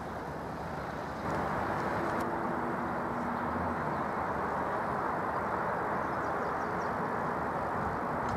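Eurostar Class 373 high-speed train approaching on the line, a steady rushing rail noise with a faint hum. It gets louder a little over a second in.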